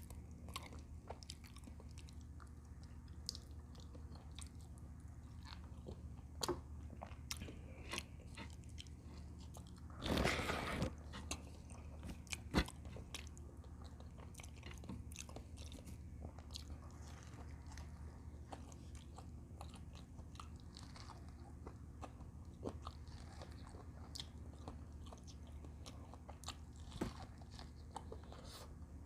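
Close-miked eating of camel bulalo: chewing with many scattered small clicks. A louder, noisy sound about a second long comes about ten seconds in, and a sharp click follows shortly after.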